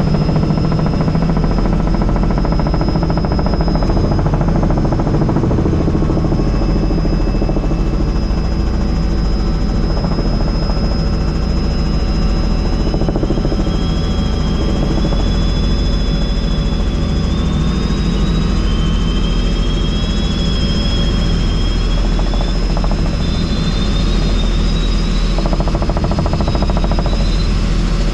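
Helicopter in flight heard from inside the cabin with the doors off: a loud, steady rotor and engine drone, with a thin high whine that drifts slightly in pitch.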